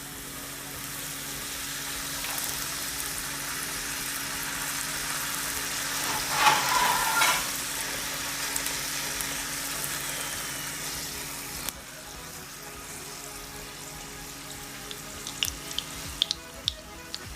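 Maida dough cup deep-frying in hot oil: a steady sizzle with scattered crackling pops. It swells louder for about a second midway and drops suddenly to a quieter sizzle a little past halfway.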